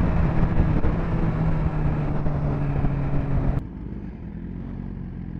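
Suzuki GSX-R1000 inline-four motorcycle engine running at a steady cruising note, with wind noise on the helmet mic. About three and a half seconds in, the sound drops suddenly to a quieter, lower engine note.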